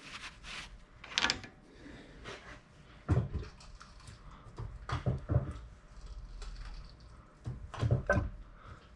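Hand-operated fluid pump being worked to push gear oil into a rear axle: a few scattered clunks and squelchy knocks from the pump strokes, some in quick pairs, about a second or two apart.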